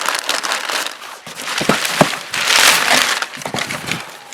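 Packing material and cardboard crinkling and rustling as parts are handled, with a couple of sharp knocks about a second and a half in.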